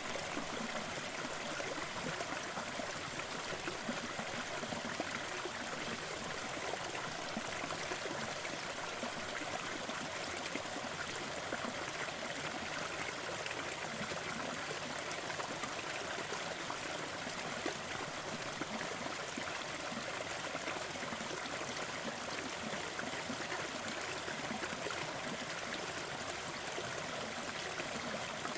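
Waterfall: steady rushing and splashing water with no change.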